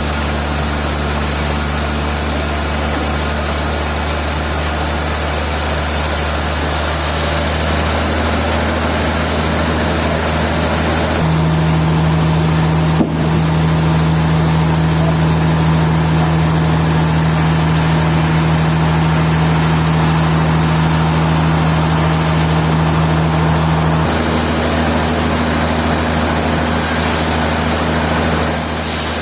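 Sawmill machinery running with a steady, loud engine-like hum. The hum grows stronger from about eleven seconds in until about twenty-four seconds in, with a single sharp click about thirteen seconds in.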